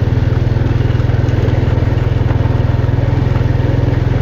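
Motorcycle engine running at a steady, even speed.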